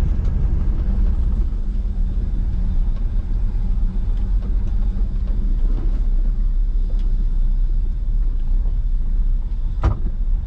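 1982 Chevy Scottsdale pickup running and rolling, a steady low rumble, with one sharp knock near the end.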